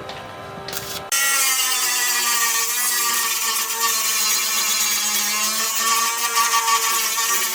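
An electric power tool switches on about a second in and runs steadily with a high whine and hiss, its pitch sagging slightly at one point as if it is loaded.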